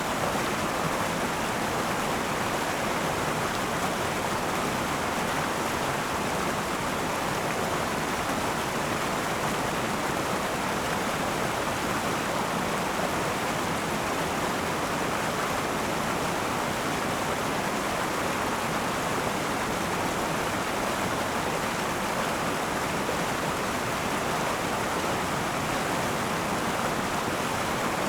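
River water rushing steadily over rocks in a continuous, even flow.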